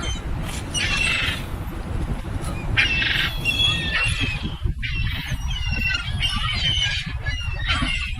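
A flock of birds calling, many short high calls overlapping and repeating, over a steady low rumble.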